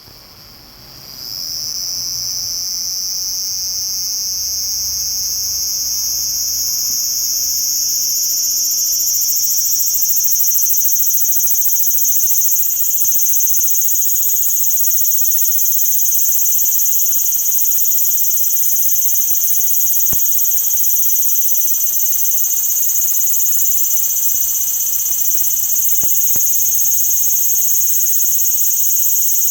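Cicada song: a continuous, high-pitched buzzing drone that swells up about a second in and then holds steady.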